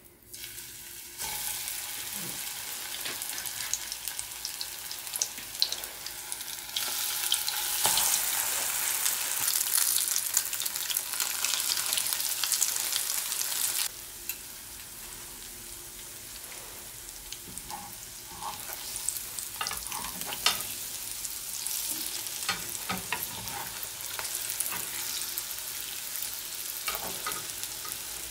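Floured cottage cheese sticks sizzling as they shallow-fry in hot oil in a pan, with scattered pops and clicks. The sizzle starts about a second in as the sticks go into the oil and grows louder. About halfway through it drops suddenly to a quieter sizzle.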